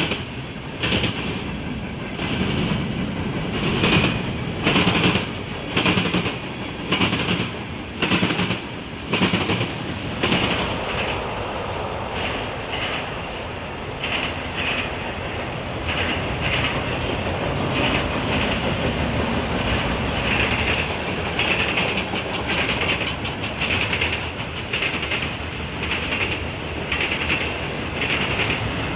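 Wheels of a passing CSX freight train clanking over a railroad diamond crossing, with loud clanks about once a second in the first ten seconds, then a steadier rolling noise with lighter clicks.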